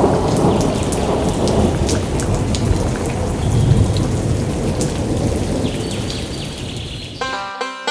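Heavy rain with a low thunder rumble, many drop patters over a steady hiss, slowly fading. About seven seconds in, plucked-string music with a steady beat starts.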